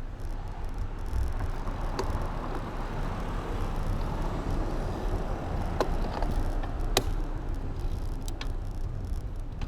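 Steady wind and road rumble from riding a bicycle, with no engine heard, broken by a few sharp clicks.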